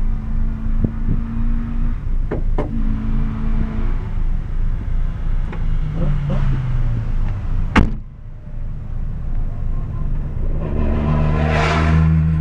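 Skoda Fabia VRS engine idling, heard from inside the cabin, with a few clicks and one loud thump about eight seconds in. Near the end a rushing noise swells over the engine.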